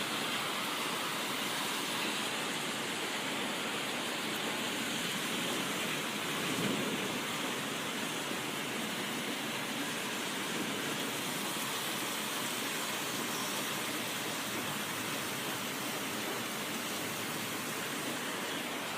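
Heavy rain pouring down steadily in a thunderstorm, an even rushing noise with no breaks.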